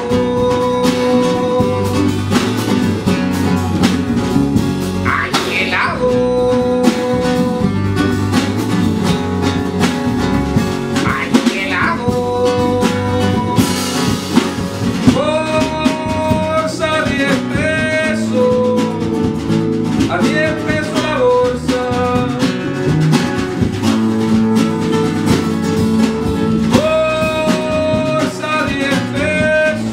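Live band playing an instrumental passage: a lead line holding long notes over guitar and a steady drum beat.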